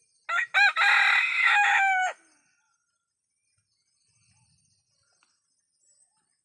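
An ayam kampung (Indonesian village chicken) rooster crowing once, for about two seconds: a short opening note, then a long held note that drops in pitch as it ends. Faint insect chirring runs underneath.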